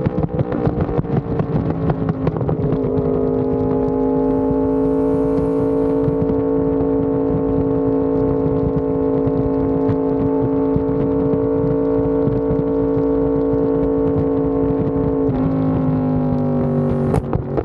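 Yamaha R1M's crossplane inline-four running through an SC Project exhaust under way, its note wavering at first and then holding steady for about twelve seconds at constant throttle. The pitch steps down near the end, followed by a sharp crack.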